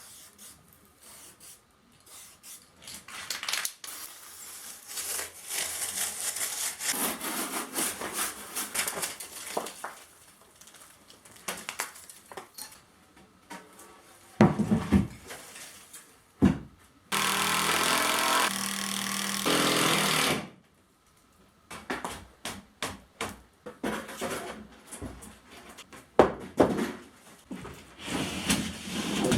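Carpentry work on wood: rasping, sawing-like strokes and knocks on boards, then a power tool runs steadily for about three seconds in the middle, followed by more knocks and handling noises.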